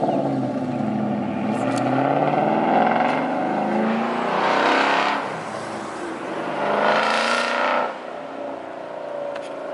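Ford Mustang GT 5.0 V8 with an aftermarket exhaust, running and revved, with two louder swells of throttle about five and seven seconds in before it settles back to a lower, steady note.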